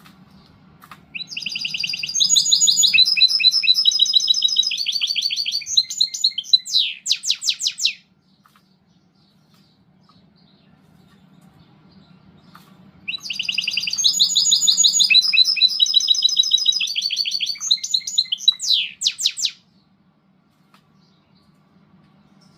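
Goldfinch × canary hybrid (mixto) singing two long song phrases of fast trills and twitters, the first starting about a second in and the second a little past halfway, each lasting about six or seven seconds and ending in a run of quick falling sweeps.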